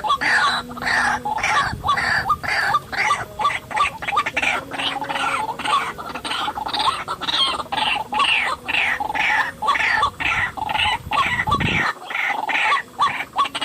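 White-breasted waterhen calling: a loud, continuous string of harsh, clucking notes repeated about three times a second.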